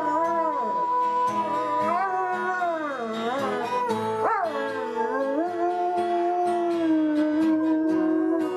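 A dog howling along to music: long wavering howls that slide up and down over held musical notes.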